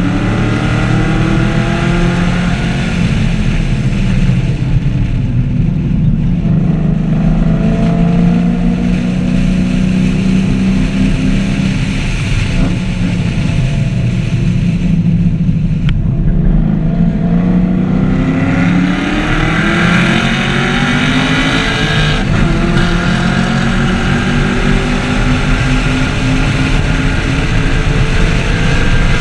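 2014 Chevrolet Camaro 1LE's V8 engine being driven hard on a race track, the revs dropping under braking and climbing under acceleration. In the last third there is a long climb in pitch, a sudden drop at the upshift, then another climb.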